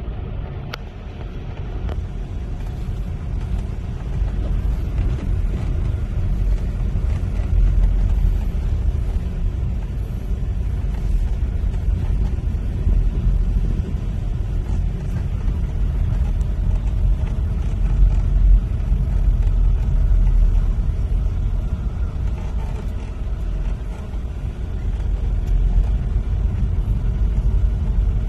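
Steady low rumble of a vehicle on the move, heard from inside it.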